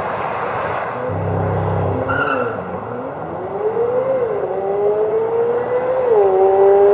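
C8 Corvette Z06's 5.5-litre flat-plane-crank V8 accelerating hard from a launch-control start. Its pitch climbs, drops sharply at two quick upshifts about four and six seconds in, and climbs again each time.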